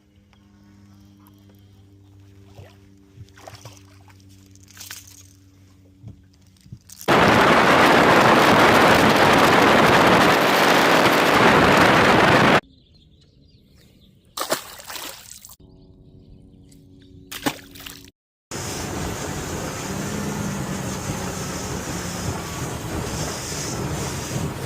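A boat under way: loud rushing wind and water noise over a low motor hum, in two long stretches cut apart by a quiet moment with a few clicks. Before it, a quieter low steady hum with scattered clicks.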